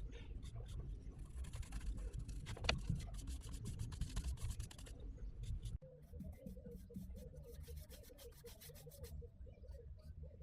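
Paintbrush rubbing and scraping rusty metal primer onto metal, a run of soft strokes with light ticks. About six seconds in the sound changes abruptly to quieter, more regular strokes.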